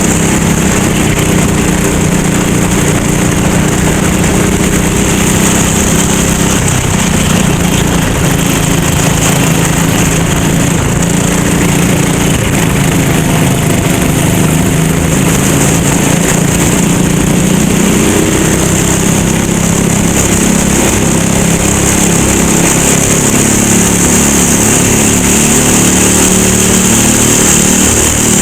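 Go-kart engine running hard during a race, its pitch shifting up and down with the throttle. A steady high hiss runs along with it.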